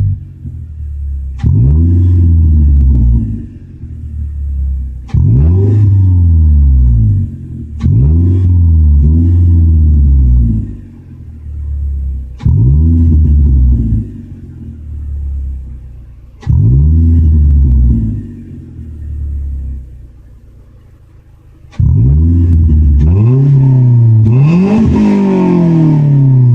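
A 2009 Toyota Corolla's four-cylinder engine, fitted with an Injen cold air intake and a Flowmaster 40 Series muffler, being blipped from idle about every four seconds. Each rev rises sharply and falls back toward idle. Near the end the engine is held up longer in one bigger rev.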